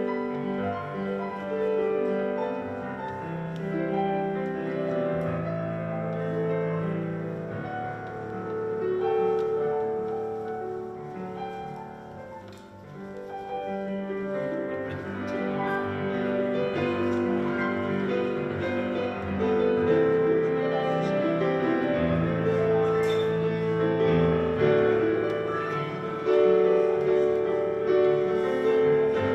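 Slow instrumental piano music with long held chords.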